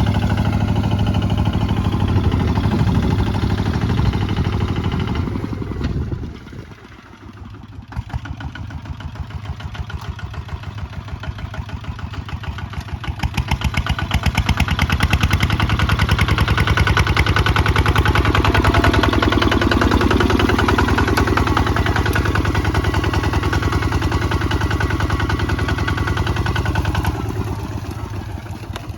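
Kubota ZT155 single-cylinder diesel engine running with its firing pulses plainly heard. It drops sharply about six seconds in, picks back up and runs harder and louder from about halfway, then eases off near the end.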